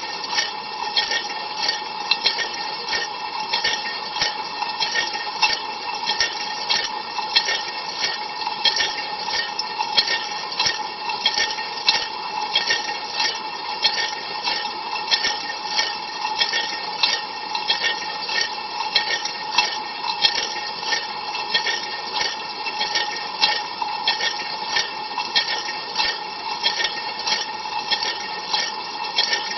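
Ariston LV 46 A IX dishwasher running a cold-water rinse, heard from inside the tub: water spraying against the walls and racks over a steady pump whine, with a splash pulse about twice a second.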